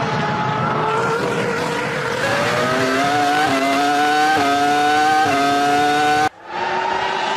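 2003 Formula 1 car's V10 engine at high revs, its pitch climbing from about two seconds in with several quick gear changes. About six seconds in the sound cuts off abruptly and another engine is heard running at a steady pitch.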